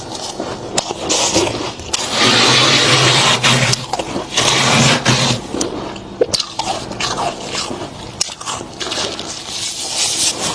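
Thick freezer frost crunching and scraping close to the microphone, with crisp crackles and two longer, louder stretches of crunching a few seconds in.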